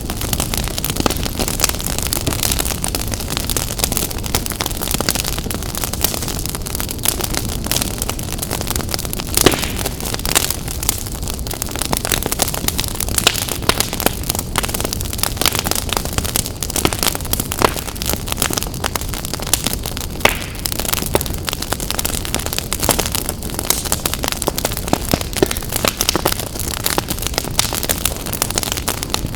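Wood fire burning in a fireplace, crackling and popping irregularly over a steady low noise of the flames, with one sharper pop about nine and a half seconds in.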